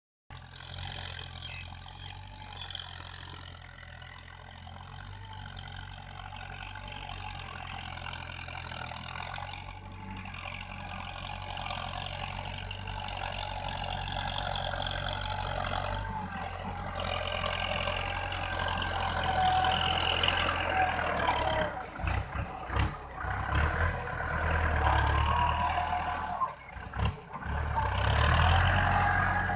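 Farm tractor engine running steadily at a low, even pitch, with a few brief drops in level in the second half.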